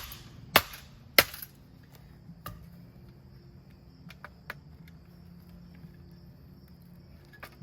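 Baseball bat striking a ceiling fan, three sharp blows about half a second apart in the first second and a half, followed by a few light clicks and knocks. A steady high-pitched hum runs underneath.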